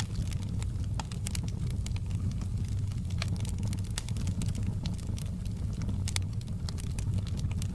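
Wood fire in a fireplace crackling, with many sharp pops and snaps scattered over a steady low rumble.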